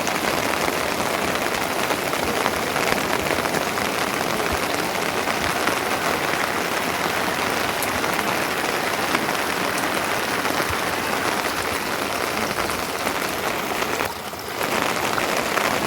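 Steady rain falling, an even hiss with faint scattered drop ticks, dipping briefly near the end.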